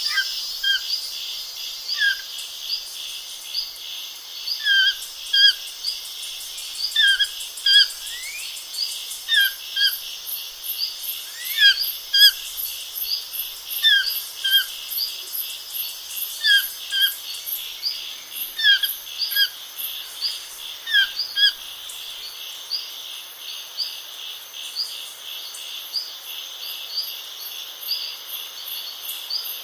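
Small birds chirping in short notes, often in pairs, repeated every second or so, over a steady high trilling of insects.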